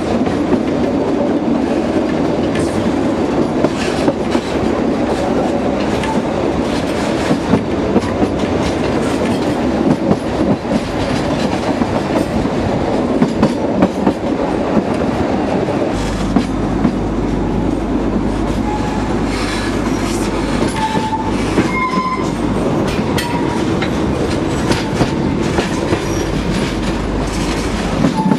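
Narrow-gauge (760 mm) train running steadily, its wheels clattering over the rail joints. A few short, high-pitched wheel squeals come in about two-thirds of the way through.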